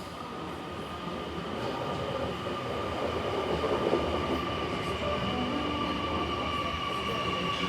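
Electric passenger train approaching along the platform, growing louder, with a steady high whine of several held tones over the rumble.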